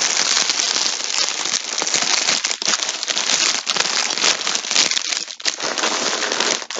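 Plastic packaging crinkling and crackling continuously as it is handled, with many quick irregular crackles and a brief dip about five seconds in.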